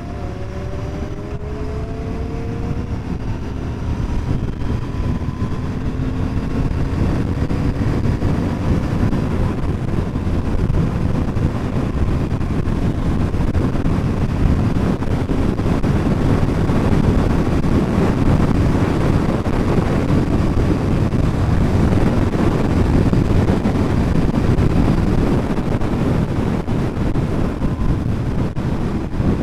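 Royal Enfield Continental GT 650's parallel-twin engine pulling under steady acceleration, its pitch rising slowly over the first ten seconds, then buried under loud wind rush on the microphone at speed.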